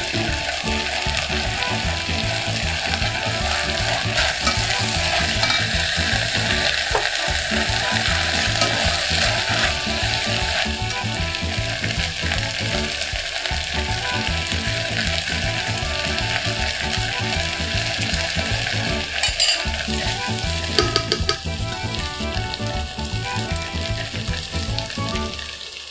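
Bolognese base of chopped vegetables and mince sizzling in an enamelled cast-iron pot while a silicone spatula stirs it. There are a few sharper clicks about twenty seconds in.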